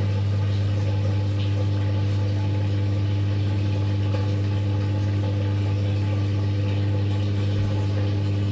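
Top-loading washing machine's drain pump running with a steady, even hum.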